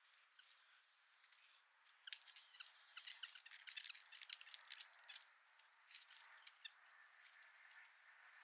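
Nuthatches and chickadees pecking at a bird feeder: a flurry of quick, light taps and clicks that starts about two seconds in and thins out near the end, over faint hiss.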